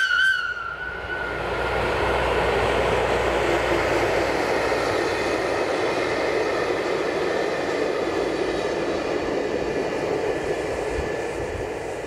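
Electric locomotive hauling a short train of vintage passenger coaches passing by: a steady rush of wheel and rail noise that builds and then slowly fades. Its horn note cuts off right at the start.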